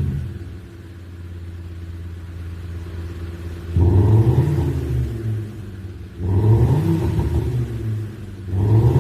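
SsangYong Korando Sports pickup with an Xhaust electronic active-sound exhaust playing a synthetic V8 exhaust note: a steady rumbling idle, then three quick revs, the pitch rising and falling back each time, about four, six and a half and nine seconds in.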